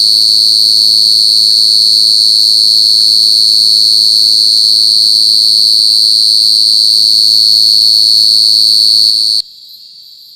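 Male cricket stridulating: a loud, continuous high-pitched trill that cuts off suddenly about nine seconds in, with a faint low hum underneath.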